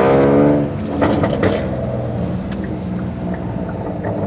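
Car engine accelerating, its pitch rising until it breaks off about half a second in, then running on more steadily with road noise.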